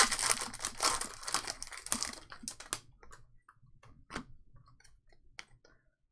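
Crinkling and rustling of trading card pack wrappers and cards being handled, dense for about the first three seconds, then a few scattered light clicks.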